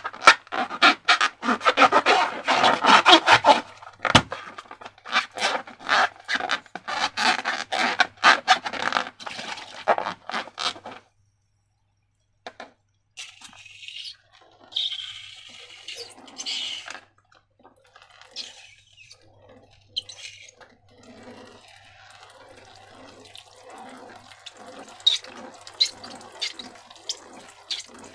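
Slime being squished and worked by hand: a dense run of sticky, crackling clicks for about the first eleven seconds, a short pause, then quieter wet squelching with scattered clicks.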